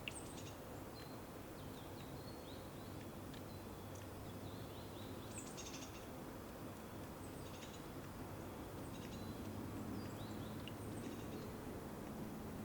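Small birds chirping off and on, with short high notes and quick downward-sweeping calls coming in scattered clusters. Under them is a steady low hum of outdoor background noise.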